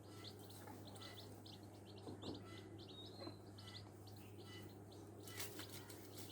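Newborn chicks peeping: many short, high cheeps in quick succession, faint, over a low steady hum.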